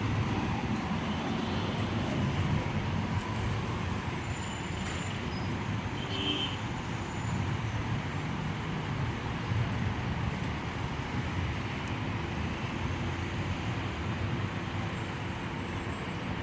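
Steady rush-hour road traffic: a continuous rumble of passing motor vehicles.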